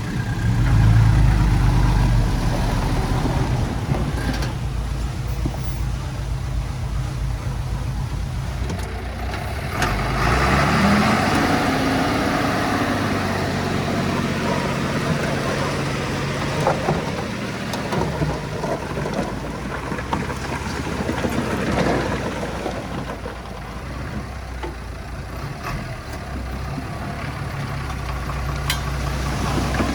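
Small Komatsu D20P bulldozer's diesel engine running under load, revving up about a third of the way in and working hard for a few seconds before easing back.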